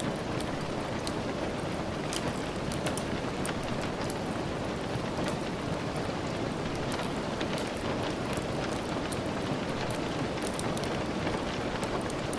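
Steady rain falling, mixed with the soft crackle of a wood fire, with many small sharp ticks scattered throughout.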